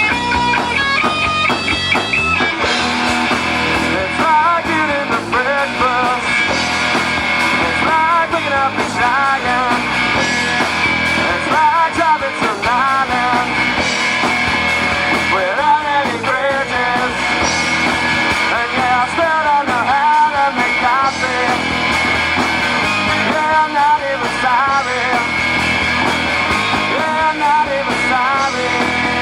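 Live rock band playing, electric guitar to the fore. A guitar phrase opens, and the full band comes in about two and a half seconds in, with a melody line wavering in pitch over it.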